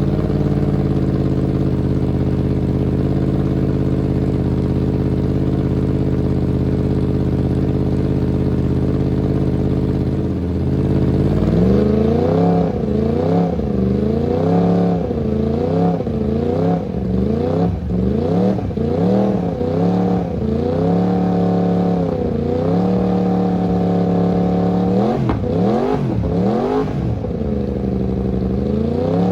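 Yamaha YZF R1's crossplane inline-four breathing through an Akrapovič WSBK race exhaust: it idles steadily for about ten seconds, then is revved in a long series of quick throttle blips, each rising and falling, before dropping back to a steady idle near the end.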